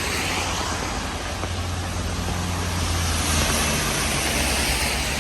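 A motor vehicle's engine running close by, loudest about three seconds in, over a steady hiss of rain and wet street.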